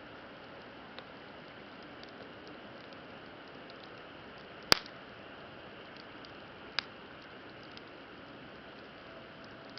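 Wood campfire burning with a steady low hiss and scattered faint crackles, one sharp loud pop about halfway through and a smaller pop about two seconds later.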